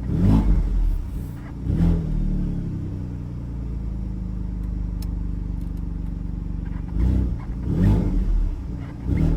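Alfa Romeo Stelvio Quadrifoglio's twin-turbo V6, in Race mode shortly after a cold start, revved with quick throttle blips. There are a few blips at the start, then a steady idle, then another group of blips near the end.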